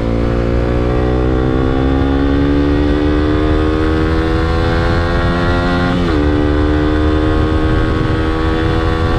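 Suzuki GSX-S125's single-cylinder engine pulling up through the revs under way, its pitch rising steadily, then dropping sharply about six seconds in at an upshift before climbing again. A low wind rumble runs underneath.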